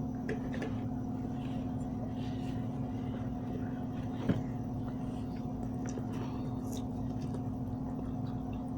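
A steady machine hum holding a fixed pitch, with faint small clicks of eating and one sharper click about four seconds in.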